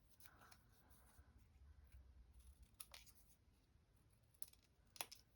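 Near silence, broken by a few faint, sharp clicks of paper-crafting handling, about halfway through and near the end.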